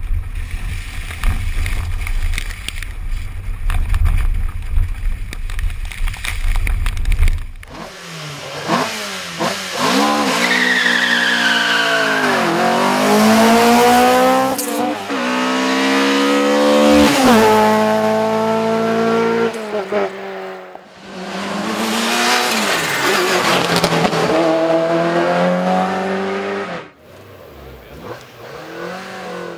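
Electronic music with a heavy bass line for about the first seven seconds, then classic rally cars at full throttle. Their engines climb through repeated upshifts, each rise in pitch broken by a gear change. Two or three cars pass one after another, with short dips in between.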